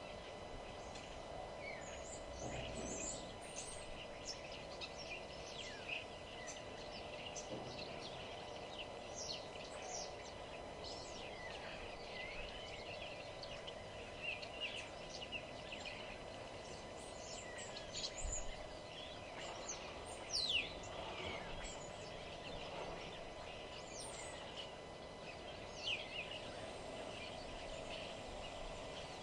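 Several songbirds chirping and singing, many short overlapping calls and quick whistled glides, over a steady low background hum.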